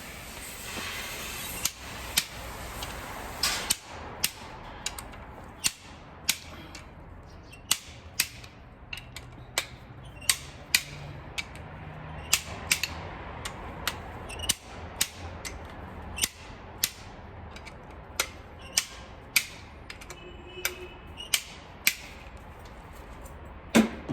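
Hand ratchet wrench clicking in short, separate strokes as bolts are run down during reassembly of a Chevrolet 5.3 L V8; sharp metallic clicks, irregularly spaced, one every half-second to a second.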